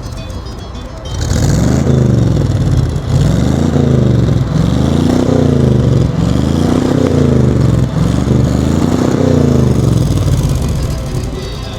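An engine revved repeatedly, about five times: each rev climbs in pitch and drops back over a second or two. It starts about a second in and fades near the end.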